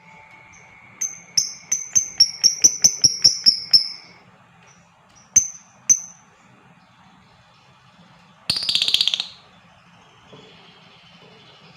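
Lovebird calling: a quick series of sharp, high chirps, about four a second for some three seconds, then two more single chirps. Near the end comes one short, harsh screech.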